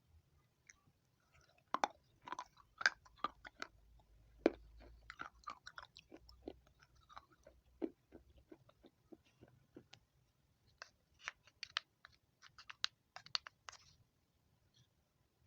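Dry clay pot pieces with grey clay paste being crunched: quick runs of sharp cracks and snaps in two bouts, the first from about two seconds in, the second from about eleven seconds in, with a quieter gap between.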